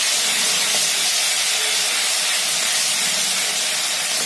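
Garlic and fried onions sizzling steadily in hot oil in a kadhai as a wooden spoon stirs them.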